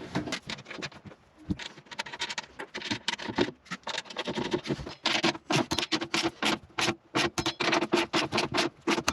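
Hand tools working on fasteners while a mounting plate is fitted in a jet ski hull: a fast, uneven run of sharp clicks and scrapes that gets denser and more regular about halfway through.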